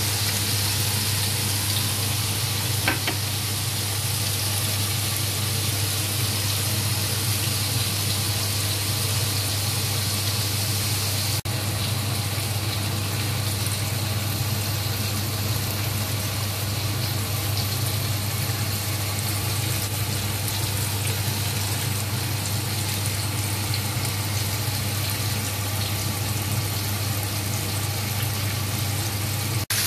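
Tofu pieces sizzling steadily in hot oil in a wok, pan-frying until golden, over a constant low hum.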